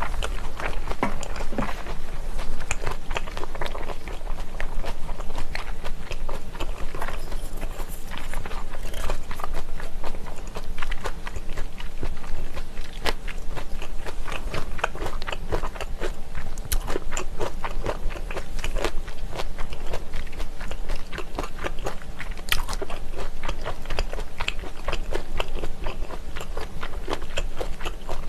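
Close-miked chewing of spicy pressed chicken-feet terrine (dakbal pyeonyuk), a steady run of sharp wet mouth clicks and smacks.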